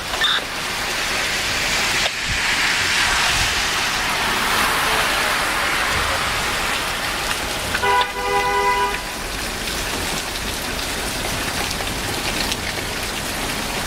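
Heavy rain falling steadily in a thunderstorm. About eight seconds in, a vehicle horn sounds once for about a second over the rain.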